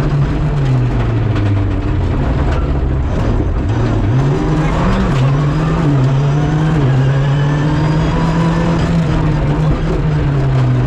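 Rally car engine heard from inside the cockpit, running hard. About a second in the revs drop as the car slows for a chicane, then they climb again around four to five seconds in and hold high and fairly steady.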